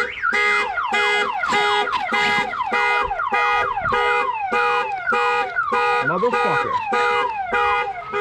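Buick Regal GS car alarm sounding, set off by a bump. It blares fast repeated beeps, about two or three a second, with quick falling chirps running through them.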